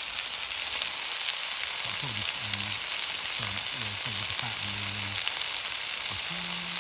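Mushrooms frying in a pan, a steady, even sizzle.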